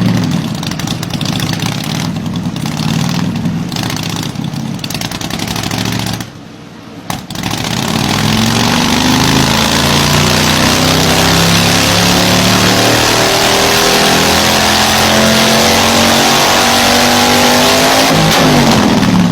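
Motorcycle engine running, dropping off briefly, then accelerating hard with its pitch climbing for the rest of the stretch, and falling away right at the end.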